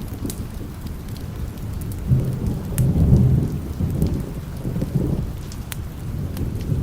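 Steady rain with a low, rolling thunder rumble that swells about two seconds in, peaks near the middle and dies away, with scattered sharp crackles over it.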